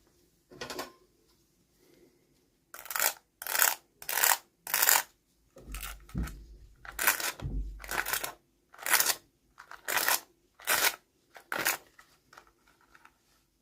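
Toy packaging handled during an unboxing: a series of about a dozen short, sharp crinkling bursts at irregular intervals, like plastic wrap or a blister pack being squeezed and opened.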